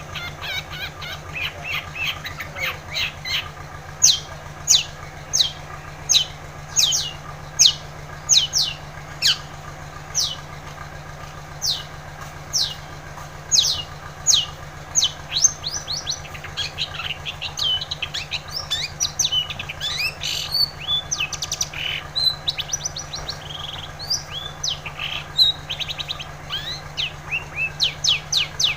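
Long-tailed shrike (cendet) singing vigorously: a long run of short, sharp, high notes, each sweeping downward, coming more densely and more varied about halfway through. A steady low hum runs underneath.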